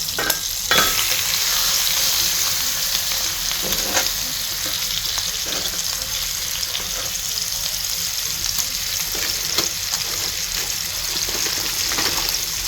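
Seasoned chicken thighs frying in hot bacon grease: a steady sizzle, with a few short knocks as pieces go into the pan.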